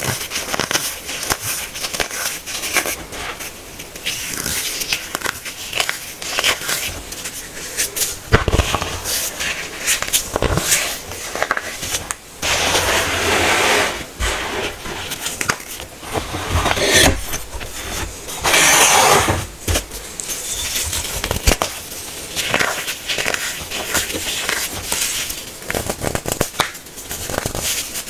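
Hard-packed baking soda being crushed: a dense run of crunching crackles, with two longer, louder crumbling stretches, one about halfway through and one about two-thirds in.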